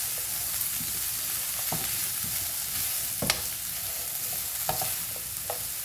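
Onion and capsicum stir-frying in oil in a pan over a high flame, with a steady sizzle. A few sharp knocks of a utensil against the pan come through, the loudest about three seconds in.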